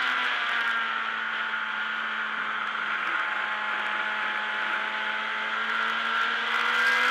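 Racing motorcycle's engine heard from its onboard camera over a rush of wind. The revs drop a little in the first second as the bike enters a corner, hold steady through the lean, and start climbing again near the end as it accelerates out.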